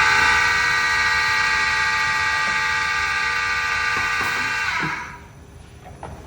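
A machine on an air filter production line gives a loud, steady, buzzing whine of several tones. It starts with a click, holds for about five seconds and then stops.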